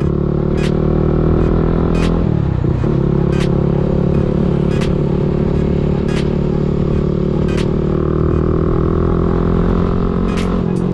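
CFMoto NK 250's single-cylinder engine running through an aftermarket Orion full-system exhaust while riding at a steady engine speed. The revs dip briefly and recover about two seconds in.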